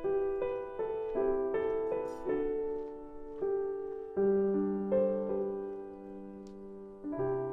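Soft solo piano background music: single notes and chords struck one after another and left to ring and fade. A lower chord is held from about four seconds in.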